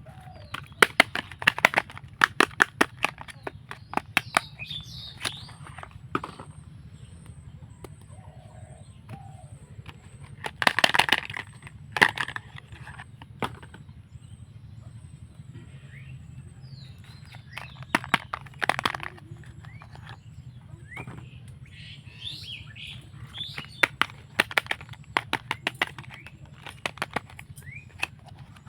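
Soap packaging being handled and opened: plastic or paper wrapping crinkles and tears in bursts of sharp crackles, with quieter stretches between the bursts.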